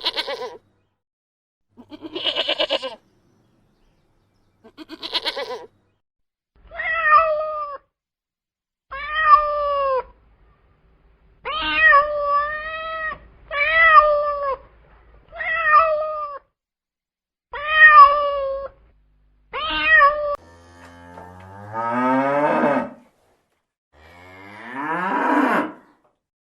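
A sequence of farm-animal calls. It opens with three short, quavering bleats, typical of a goat. Then a cat meows about nine times, each meow bending up and down in pitch. Near the end, a cow gives two long, low moos.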